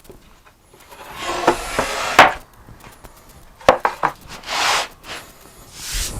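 Wooden panels and hand tools handled on a workbench: a scrape, two sharp knocks of wood set down, and short rubbing swishes.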